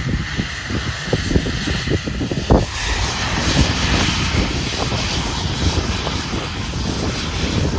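Private jet's engines running, a rushing jet noise that grows louder about three seconds in, with wind buffeting the microphone.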